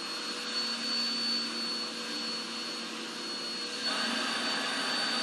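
Vacuum cleaner running continuously: a steady whine with a high tone over the rush of air. About four seconds in, the rush grows louder.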